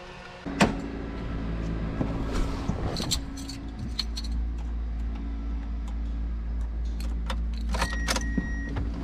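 Keys jangling and clicking at a car's ignition, with a sharp click about half a second in followed by a steady low hum, and a short electronic beep near the end.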